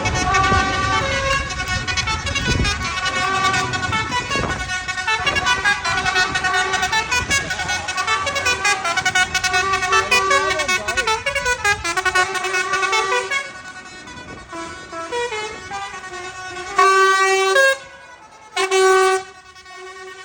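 A tune of quick pitched notes plays for about thirteen seconds, then a horn gives two loud, held honks near the end.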